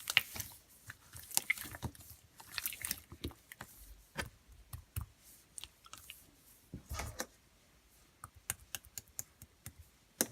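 Irregular close-up clicks and short crunchy rustles.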